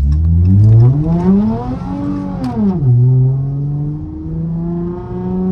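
Straight-piped car exhaust revving up under hard acceleration, its pitch climbing for about two seconds. It drops sharply about two and a half seconds in, then holds and rises slowly again.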